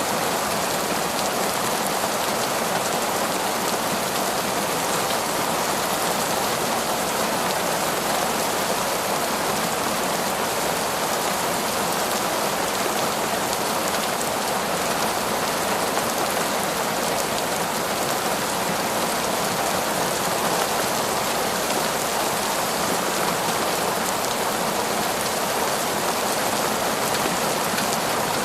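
Heavy torrential rain falling steadily in a forest, a dense, even hiss of drops on leaves and ground.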